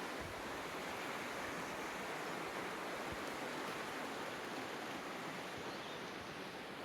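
Creek water flowing, a steady even rushing.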